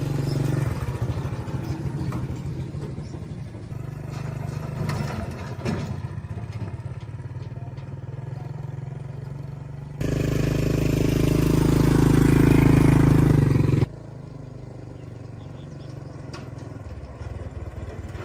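An engine running, heard in several abruptly cut clips. It is loudest for about four seconds from roughly ten seconds in, then drops back suddenly to a quieter running sound.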